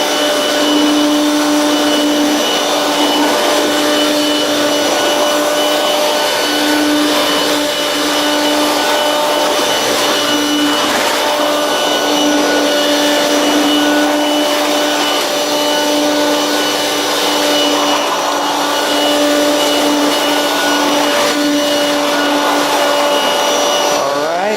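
Two-speed motor of a late-1990s Hoover Quik Broom Encore S2551 stick vacuum running steadily on low speed with a constant whine. Near the end it is switched off and the pitch falls as the motor winds down.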